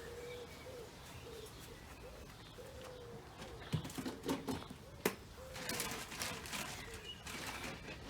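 A pigeon cooing, a repeated low phrase that runs through the first half and comes back briefly later. Over it, about halfway through, come a few sharp knocks and a clatter, then a rustling, rattling noise.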